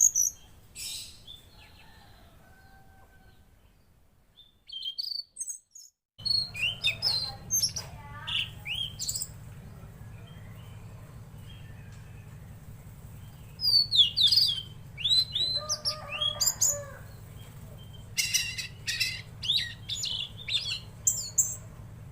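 A tledekan laut bird singing in bursts of sharp, fast-gliding chirps and whistles, with short pauses between phrases. About six seconds in the sound breaks off, then resumes over a steady low hum.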